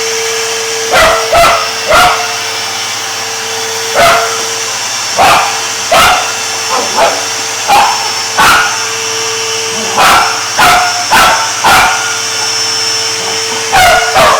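A vacuum cleaner running steadily with a constant hum while a dog barks at it repeatedly, about fifteen short barks in irregular bunches.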